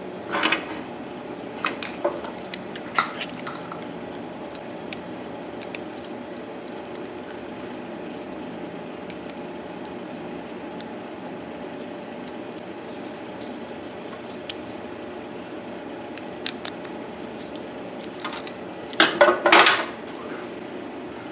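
Metal hand tools clinking and clanking on metal parts. There are a few clanks in the first three seconds and a louder, quick cluster near the end, over a steady background hum.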